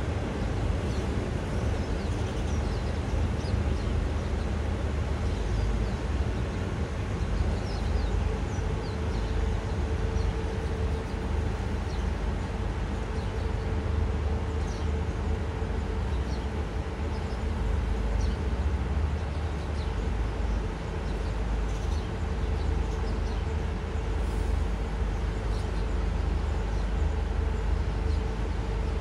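Train in a rail yard running with a steady low rumble, a steady hum joining about eight seconds in, and faint bird chirps over it.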